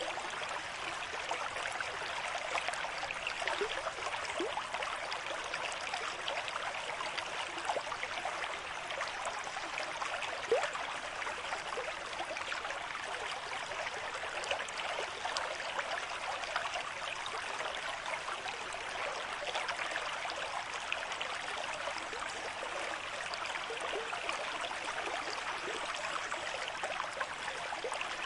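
Stream water flowing steadily over stones at a moderate rate, an even rush full of small splashes and gurgles.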